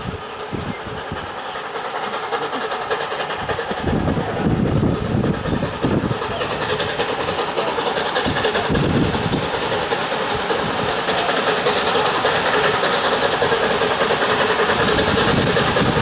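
Steam train approaching on the line, its noise growing steadily louder, with wheels clattering over the rails.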